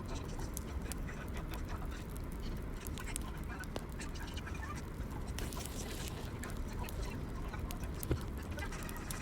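Wood fire crackling in a fireplace: irregular sharp pops and snaps over a steady low rumble, with a louder pop just past eight seconds.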